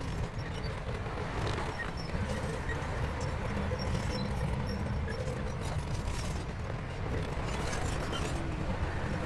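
Shantui bulldozer's diesel engine running steadily with a low rumble, with scattered knocks and clatter from the machine at work.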